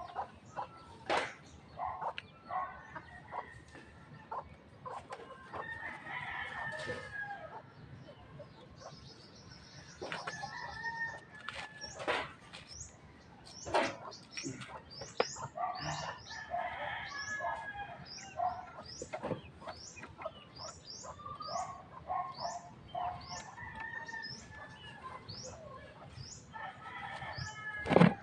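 Chickens clucking and a rooster crowing, with a few sharp knocks. From about halfway on, a small bird chirps in quick, short repeated notes.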